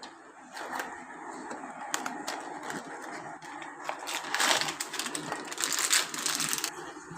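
Cooking handling noise at a kadai of chicken and melted cheese: a run of small clicks and rustles, with louder scraping or crinkling stretches about four and six seconds in.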